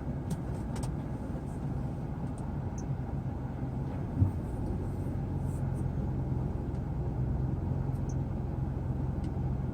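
Kia Morning TA's three-cylinder engine idling steadily, with one brief thump about four seconds in.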